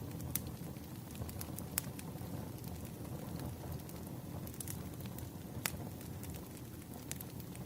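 Wood fire crackling: scattered sharp pops and snaps over a low, steady rumble.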